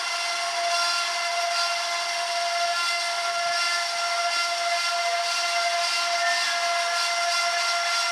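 A steady machine whine with several overtones over a constant hiss, unchanging throughout.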